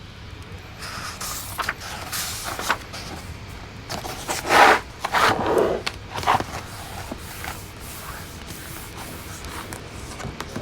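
Fireplace wood fire crackling, with scattered sharp pops over a steady hiss. A louder rustling scrape comes about four and a half seconds in and lasts a second or so.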